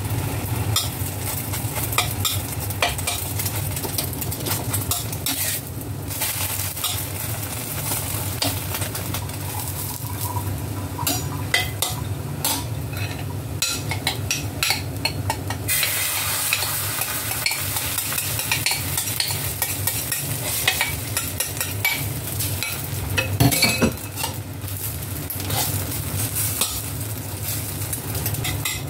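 Egg-and-dried-shrimp patties sizzling in hot oil in a stainless steel wok, with a metal spatula scraping and clicking against the pan. The sizzling grows louder about halfway through as a fresh spoonful of raw egg mixture goes into the oil.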